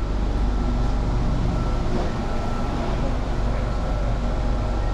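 Bangkok BTS Skytrain electric train pulling in at the station: a steady low rumble with a few faint, steady high tones over it.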